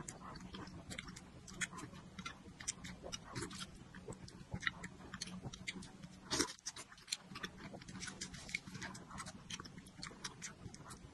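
Close-up wet chewing and smacking of dumplings in chili-oil broth: a rapid, irregular stream of small mouth clicks, with one louder burst about six seconds in.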